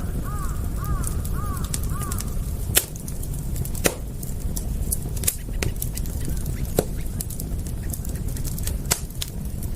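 Wood fire crackling over a steady low rumble, with sharp pops about five times. Near the start a bird calls about five times in quick succession.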